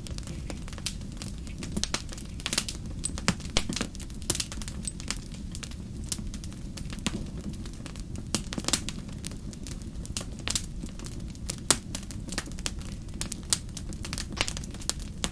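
Wood fire in a fireplace burning, with a steady low rumble and frequent irregular crackles and pops.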